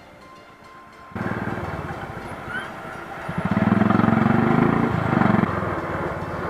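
A motorcycle engine running on the move. It cuts in suddenly about a second in and grows louder for a couple of seconds in the middle before easing back.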